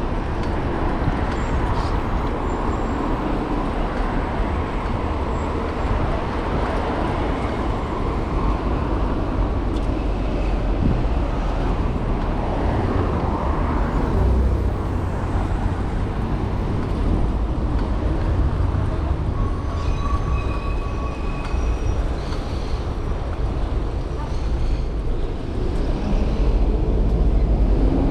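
Steady wind rumble on the microphone of a moving bicycle in city traffic, with road vehicles passing and running alongside.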